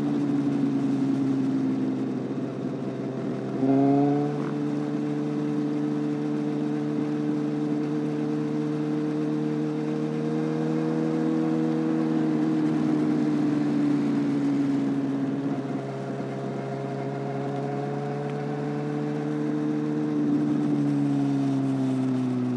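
Motorcycle engine running under way, its pitch dipping and then jumping up with a brief louder surge about four seconds in, then holding a steady drone that rises and falls gently.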